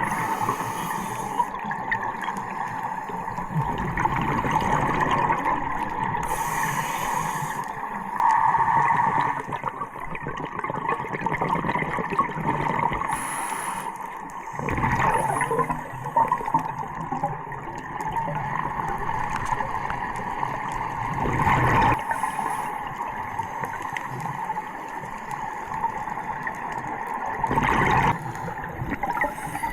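Water sloshing and gurgling, with several abrupt changes in the sound.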